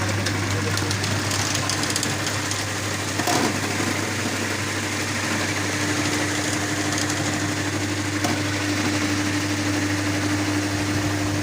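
Coir-finishing machine running steadily with a constant low hum; a steady higher tone comes in about six seconds in, and there are two brief knocks, one about three seconds in and one about eight seconds in.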